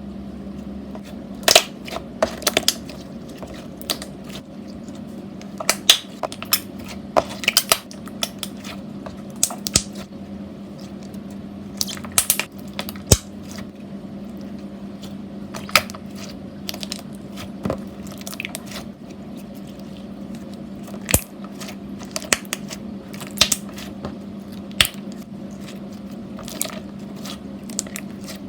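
Slime being squished and pressed by hand: irregular sharp clicks and pops, some in quick clusters, over a steady low hum.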